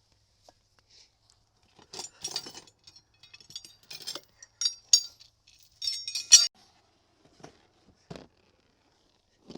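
Hard objects clinking and rattling together as they are handled, in several clattery bursts, then a couple of dull knocks near the end.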